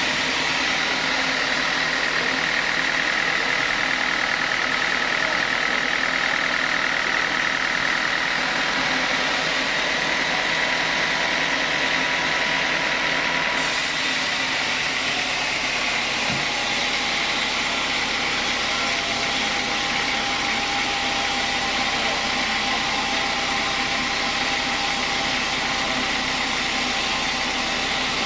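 Sawmill saw running steadily, a constant high whine over broad machine noise; the sound shifts slightly about halfway through.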